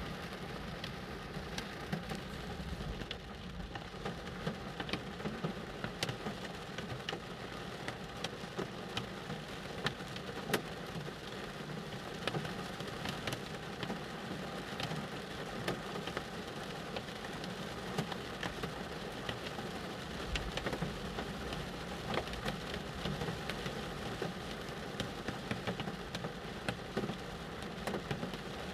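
Rain falling on a car, heard from inside the cabin: a steady patter with many scattered sharper drop hits.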